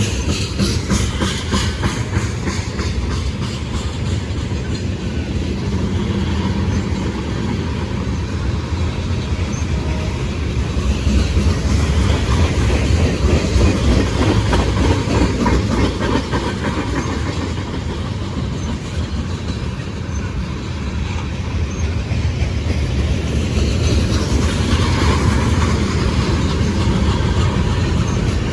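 A train rolling past close by: the steady noise of railcars on the rails, with the clickety-clack of wheels passing over rail joints.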